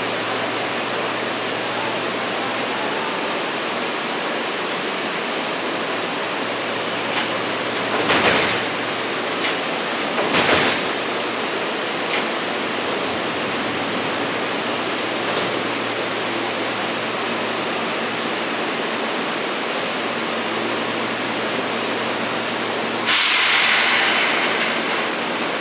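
Seibu 2000-series electric train standing at a platform: a steady rushing noise with a low hum underneath. Short louder rushes come twice in the middle, and a sudden loud rush near the end fades over about two seconds.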